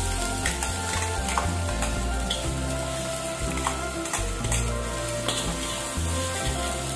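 Garlic, ginger and freshly added chopped onion sizzling in a little oil in a metal wok while being stirred, with scattered sharp taps and scrapes of the spatula and bowl against the wok.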